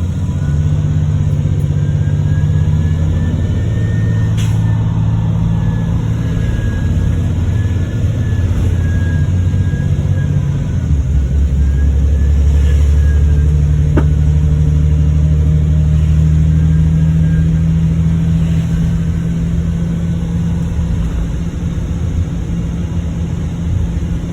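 2008 IC CE 300 school bus's DT466 inline-six turbo diesel accelerating, with a higher whine that rises and falls several times over the engine's steady drone. The engine note changes about halfway through, as if at a gear shift.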